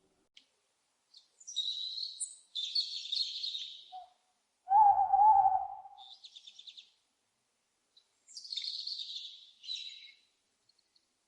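Owls calling: harsh, high-pitched screeches in two bouts, with one louder, lower call about five seconds in and a short run of rapid chattering notes after it.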